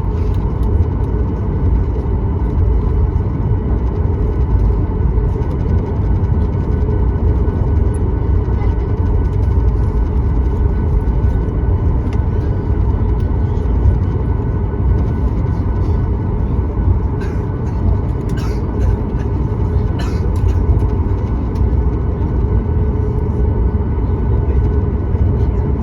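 Cabin noise inside a Boeing 737-9 MAX taxiing on the ground: a steady low rumble from the CFM LEAP-1B engines at idle and the airframe, with a faint steady hum. A few light clicks come near the end.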